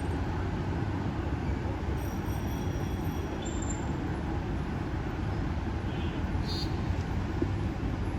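Steady rush of wind and road noise from a moving motorbike ride through traffic, heaviest in the low end and without any change in pace.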